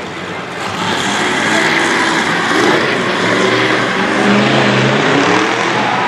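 Loud vehicle engine running over a dense roar, growing louder about a second in, its pitch wavering up and down.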